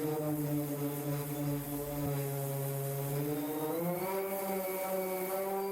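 Angle grinder fitted with a paint-stripping pad running steadily on a car door, its pitch rising a step about three and a half seconds in.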